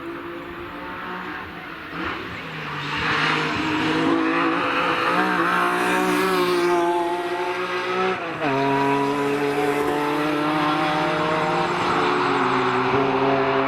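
BMW E46 M3 at full throttle, coming closer and getting louder, its engine note climbing steadily. About eight seconds in the pitch drops sharply at an upshift, then the engine pulls hard again at high revs.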